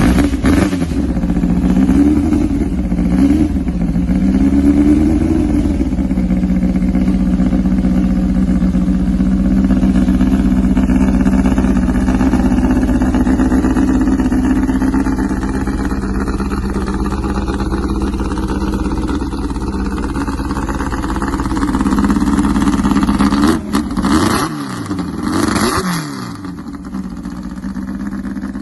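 Karmann Ghia drag car's air-cooled VW flat-four engine running, revved up and down a couple of times in the first few seconds, then held at a steady idle, with a few more revs near the end.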